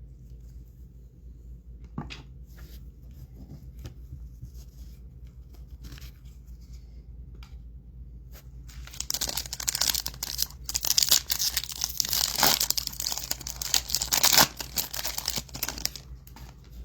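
Foil trading-card pack being torn open and crinkled, a dense crackle that starts about nine seconds in and lasts several seconds, after a few light clicks.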